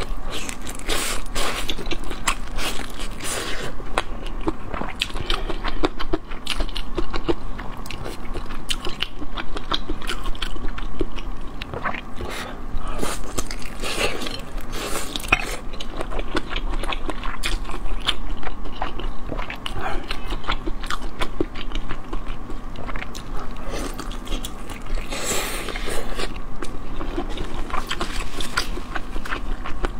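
Close-miked biting and chewing of a soft, chewy stuffed food with crunchy gongcai (dried celtuce stem) inside: a dense run of wet bites and crunches.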